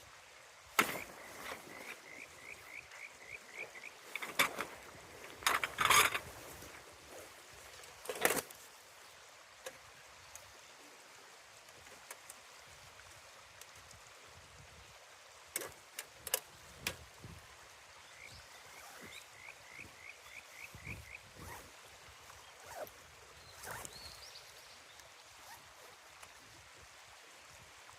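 A river rushing steadily, with several sharp knocks and clatters in the first third and a few more later. Twice a short run of about eight quick chirping notes sounds over the water.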